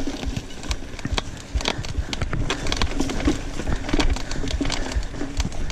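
Bicycle rattling and clattering over a rough trail: a quick, irregular run of clicks and knocks over a low rumble.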